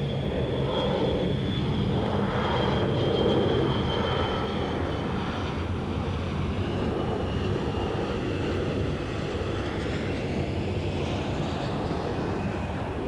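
Jet airliner engines at takeoff power: a steady rumble with a high fan whine that fades after about five seconds, loudest about three seconds in.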